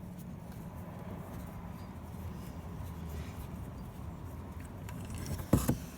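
Low steady background noise, then a sharp double knock near the end.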